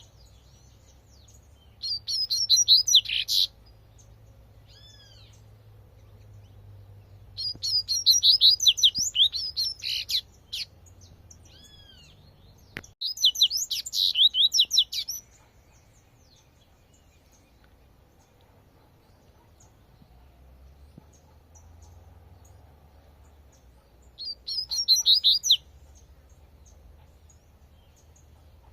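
Double-collared seedeater (coleirinho) singing its 'tui-tui' song. There are four bursts of fast, high twittering, each a second or two long, separated by pauses of several seconds. A few soft, arched single notes fall in the gaps.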